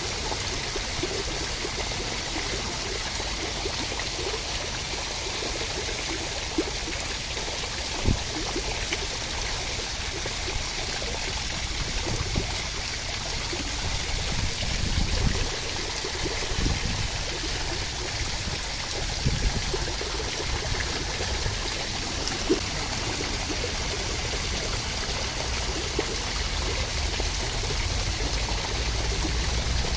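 Steady rain: a continuous hiss of falling water, with a few brief low thumps.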